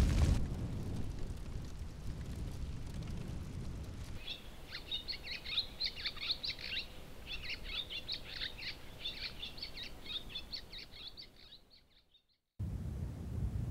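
The low rumble of a burning reed bed cuts off just after the start. Then, from about four seconds in, small birds chirp in quick, high twittering phrases for about seven seconds before fading out. A low rushing, wind-like noise comes in near the end.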